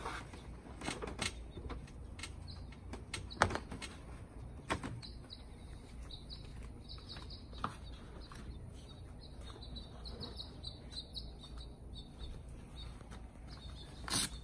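Small birds chirping in the background, with a few sharp clicks and knocks from the tent and trailer hardware being handled, the loudest about three and a half seconds in and another just before the end.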